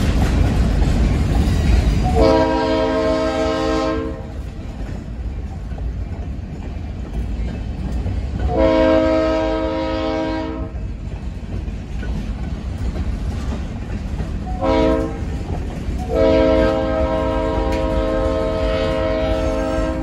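Freight train of covered hopper cars rolling past with a steady rumble and wheel clatter over the rail joints. Over it the locomotive's air horn sounds four blasts, long, long, short, long: the standard grade-crossing signal.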